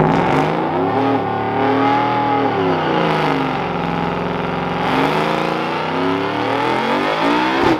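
Engine revving, its pitch rising and falling slowly, with a dip in the middle.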